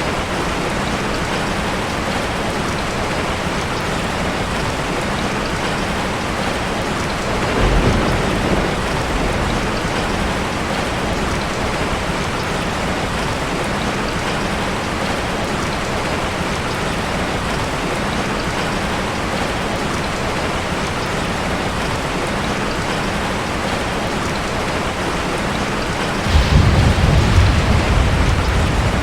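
Steady rain falling, an even hiss, with two low rolls of thunder: a brief one about a quarter of the way in and a longer, louder one near the end.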